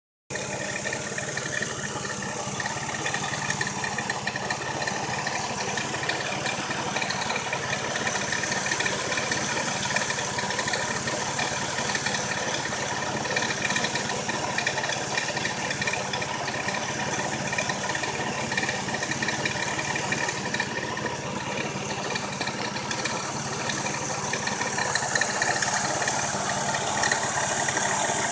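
Engine idling steadily with a fast, even rattling noise running through it: the unwanted engine noise being shown as a fault.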